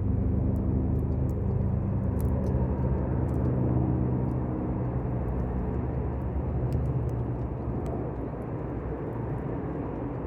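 Low engine rumble, like a vehicle or aircraft passing, that fades away over the first half, with a campfire crackling in small sharp pops throughout.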